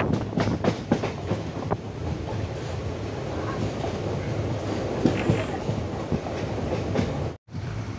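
Train running on the rails: a steady rumble with wheels clacking over rail joints, the clacks thickest in the first couple of seconds. The sound cuts out for an instant near the end.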